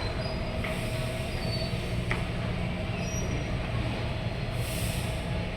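Taipei Metro C321 train slowing to a stop in the station: a steady low rumble with faint high-pitched wheel and brake squeals, and a short hiss about five seconds in.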